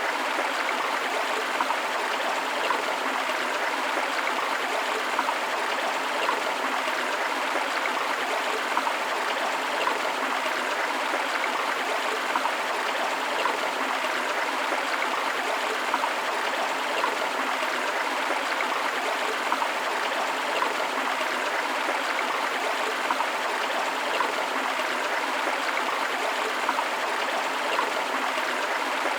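River water flowing over rocks: a steady, even rushing that does not change.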